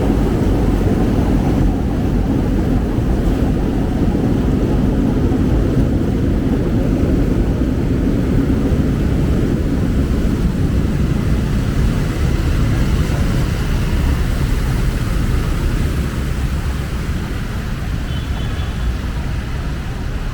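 Steady low rumble of heavy road traffic, easing slightly near the end.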